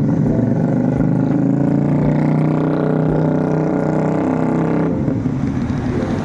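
QJMotor SRV 250 motorcycle engine running and revving; its note swells and climbs a little, then eases off sharply about five seconds in.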